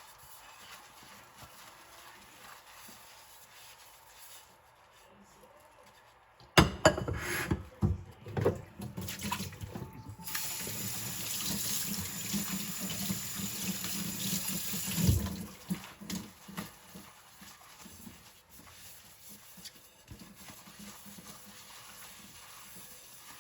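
Dishes knocking and clattering in a kitchen sink, then the tap runs for about five seconds and is shut off with a knock. Before and after, there are only faint small handling sounds.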